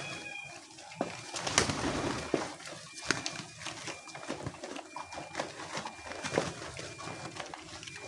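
A flock of homing pigeons cooing, with scattered sharp clicks and a louder rustling burst about one and a half seconds in.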